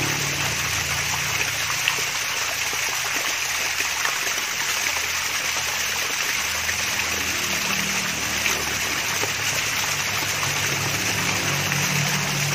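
Water splashing and trickling down a mini waterfall, a steady even rush with faint droplet ticks, and a low hum underneath.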